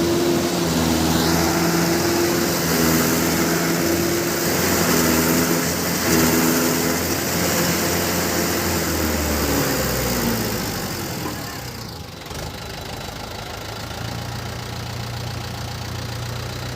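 Mahindra tractor's diesel engine running at raised revs, then the revs fall about ten seconds in and it settles to a steady idle.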